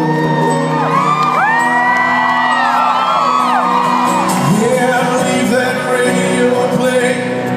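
A live country band plays an instrumental passage between verses of a ballad, with sustained chords. Audience members whoop and shout over it for the first few seconds.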